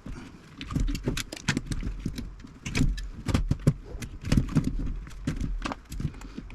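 Irregular clicks, taps and small metallic rattles of hand tools and parts being worked on an old valve radio's hand-wired metal chassis, as components and wires are snipped and pulled out.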